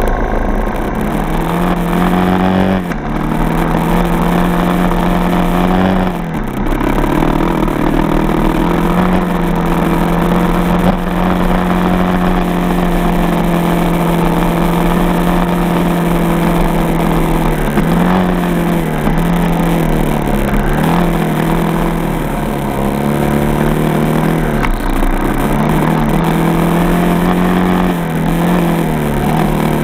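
Single-cylinder four-stroke dirt bike engine running under way at a steady speed. Its pitch dips briefly several times, at about 3 and 6 seconds in and a few more times later, as the throttle is eased off and picked up again.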